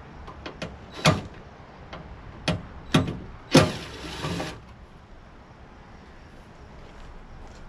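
A few sharp knocks and clanks of parts and tools being handled while a tankless water heater is dismantled. The loudest comes about three and a half seconds in and runs into a second of scraping rattle.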